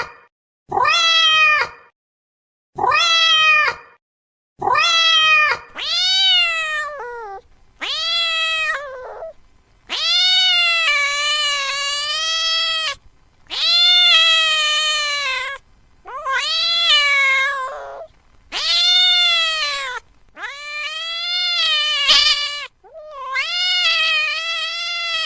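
A cat meowing again and again in high-pitched calls. The first few meows are short, about a second each; from about six seconds in they become longer, drawn-out wails, one lasting about three seconds.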